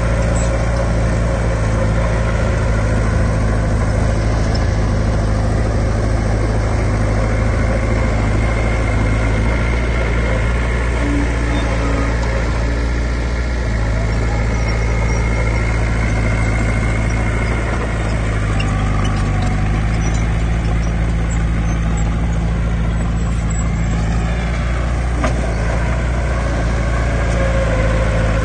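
Heavy diesel engine of earthmoving equipment running steadily at a low speed, its engine note shifting slightly a couple of times.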